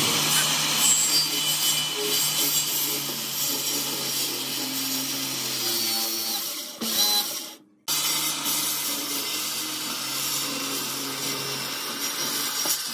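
Electric power tool running on wood with a steady motor hum and abrasive noise, cut off briefly just over halfway through before carrying on.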